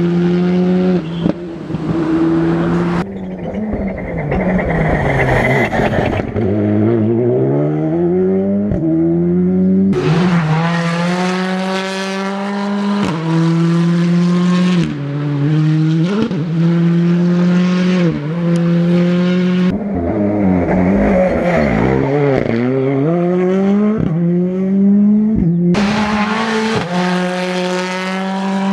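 Rally car engines at high revs, climbing through the gears and falling away as the cars brake and pass, several cars one after another.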